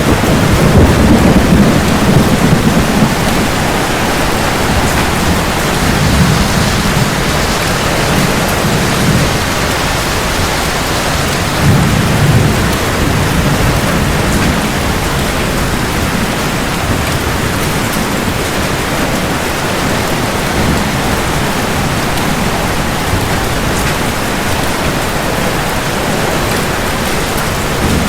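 Rain falling steadily, with thunder rumbling low through the first half, loudest at the start and swelling again near the middle, then rain alone.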